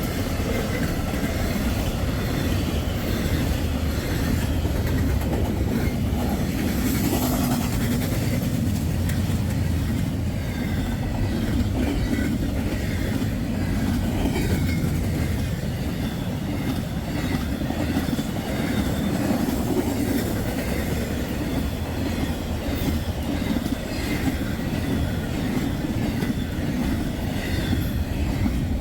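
Westbound intermodal freight train passing, its cars and wheels making a steady rumble on the rails.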